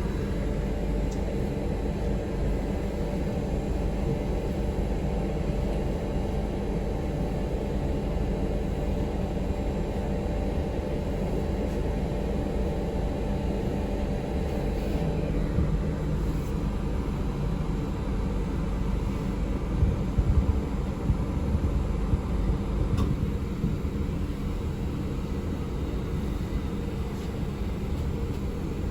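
Cabin noise of a moving city passenger vehicle: a steady low rumble of the ride, with a few louder jolts about two-thirds of the way in.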